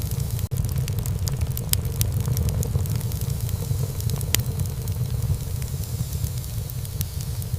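Wood fire burning in a fireplace: a steady low rumble of flames with scattered sharp crackles and pops from the burning wood, one louder pop a little past halfway. The sound drops out for an instant about half a second in.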